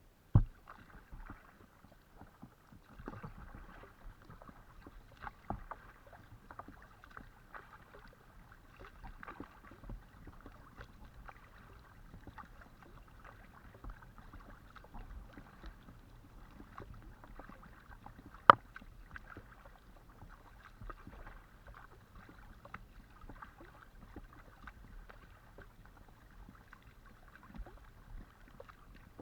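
Paddling an Itiwit X500 kayak: paddle blades splashing and dripping in the water with many small irregular ticks. There is a sharp knock just after the start and a louder one about two-thirds of the way through.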